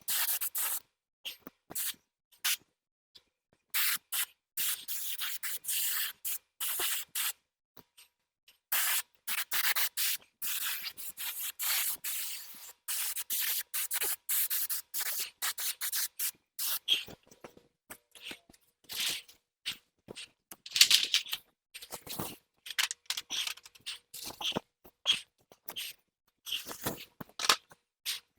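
Paint sprayer hissing in many short on-off passes with brief gaps between them while a tractor wheel hub is spray-painted.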